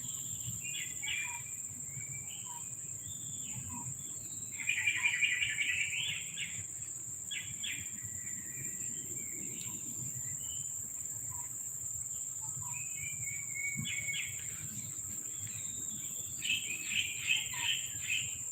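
Small birds chirping and twittering in short trills, with a louder burst about five seconds in and another near the end. A steady, high-pitched insect drone, like crickets, runs underneath.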